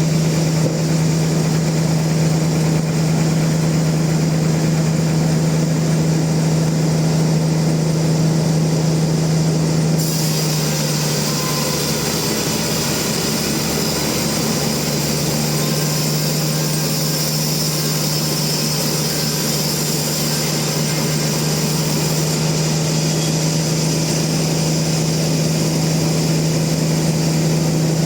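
Sawmill machinery running with a steady, loud hum. About ten seconds in, a higher hiss joins it and holds.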